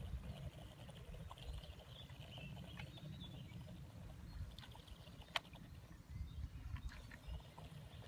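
Faint outdoor background: a low, uneven rumble with a few small clicks, the sharpest about five seconds in.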